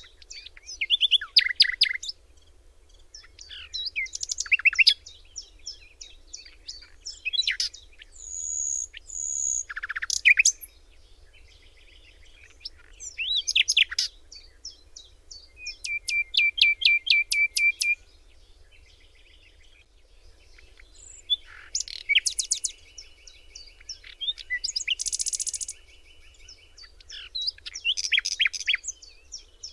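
Songbirds singing: a series of varied phrases of quick chirps and trills, some with one note repeated rapidly, separated by short pauses.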